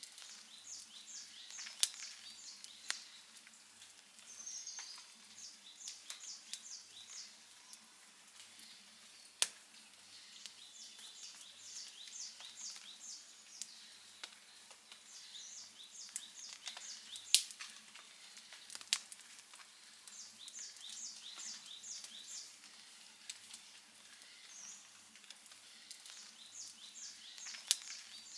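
Wood fire crackling, with irregular sharp pops, the loudest about two-thirds of the way in. Behind it a bird repeats a short, high, rapid series of chirps every few seconds.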